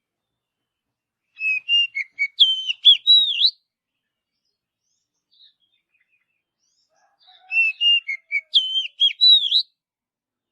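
Oriental magpie-robin (kacer) singing: two nearly identical whistled song phrases of gliding, rising and falling notes, each about two seconds long and about six seconds apart.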